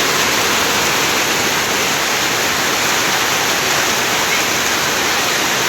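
Steady rush of flowing water, running without a break.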